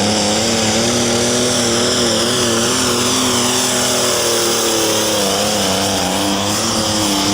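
Alcohol-burning engine of a Case International 1896 Light Limited Super Stock pulling tractor running at full throttle during a pull, its pitch wavering slightly up and down.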